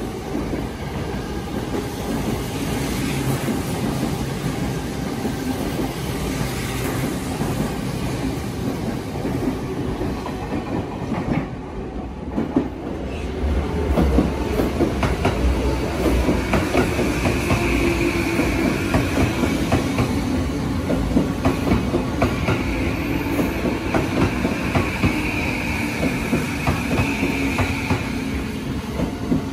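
A commuter electric train pulls out of the platform, its running noise easing off. About halfway through, a Tokyo Metro 15000 series train comes in, its wheels clattering over rail joints and its motor tone slowly falling as it brakes, with a high-pitched squeal coming and going.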